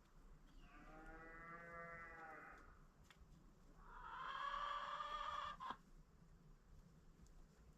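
Chickens calling: two drawn-out calls of about two seconds each, the second louder and higher-pitched, with a short sharp click right after it.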